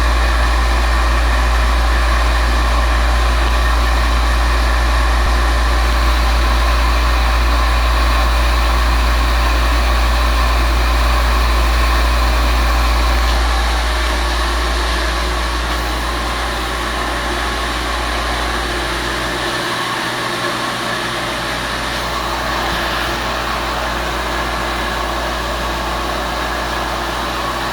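Sap pump running steadily with a strong low hum, easing a little in loudness about halfway through and dipping briefly in the low hum later on.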